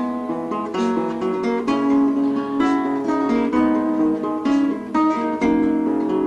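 Acoustic guitar playing a run of plucked and strummed notes.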